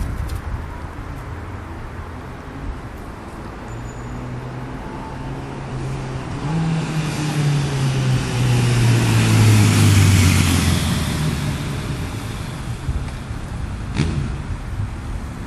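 Honda CB1100's air-cooled inline-four running through a Moriwaki one-piece exhaust, growing louder to a peak about ten seconds in and then fading, its pitch dropping as it goes by.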